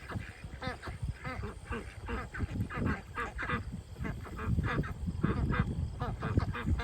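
A flock of domestic ducks quacking, with many short calls overlapping one after another over a low rumble.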